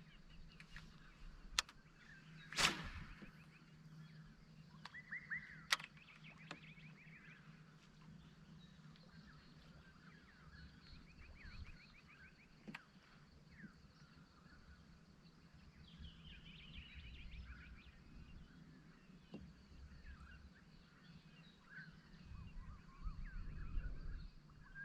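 Faint outdoor ambience of several birds chirping and trilling, with a few sharp clicks or knocks and a low steady hum underneath.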